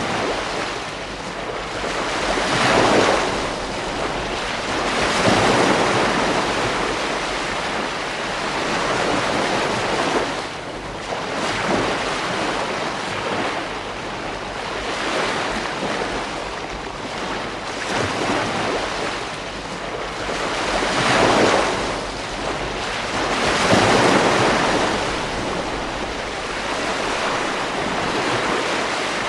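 Ocean waves breaking and washing on a beach, swelling and fading every few seconds, with steady wind noise underneath.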